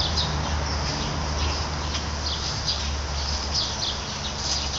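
Small birds chirping in the background, short high calls coming every half second or so, over a steady low rumble.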